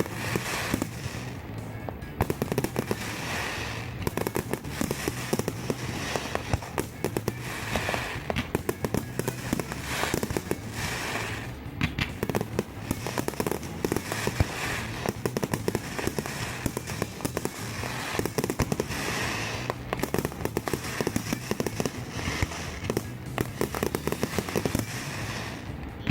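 Aerial fireworks bursting in rapid, continuous succession, sharp bangs mixed with crackling, over background music with a steady beat.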